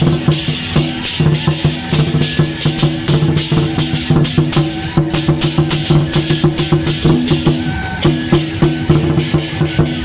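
Loud temple procession music: dense, rapid percussion strikes over sustained low notes, without a break.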